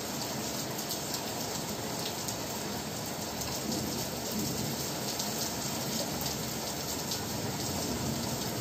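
Steady rain falling: an even, unbroken hiss with faint ticks of drops.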